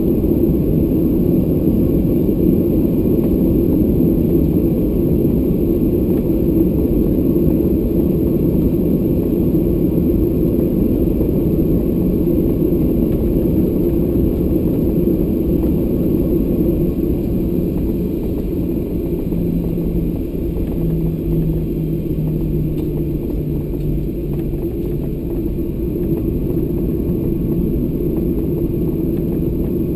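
Boeing 737-800 with CFM56-7B turbofan engines: a steady, loud low rumble of engine and airframe noise, easing slightly after about eighteen seconds, with a faint low hum that steps down in pitch a few seconds later.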